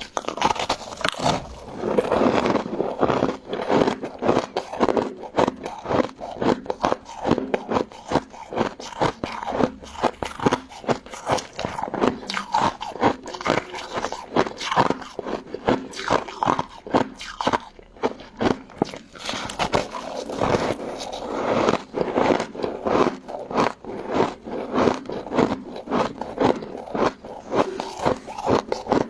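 Close-miked chewing and crunching of an icy crystal-jelly dessert, with crisp crunches coming several a second without pause.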